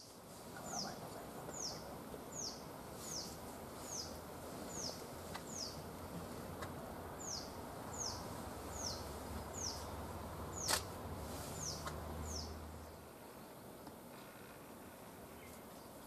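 A bird repeating a short, high, falling note a little more than once a second, pausing once midway, over a low rumble that drops away near the end. A single sharp click comes about two-thirds of the way through.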